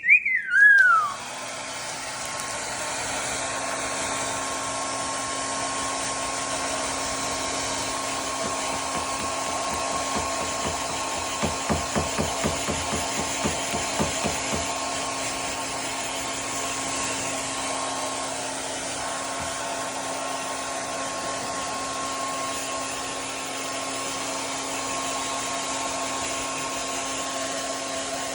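A handheld hair dryer on its fan setting with no heat, switched on about a second in and then blowing steadily with a hum under its hiss. Right at the start, a Moluccan cockatoo gives a short whistled call that slides downward. Around the middle there is a quick run of soft low thuds.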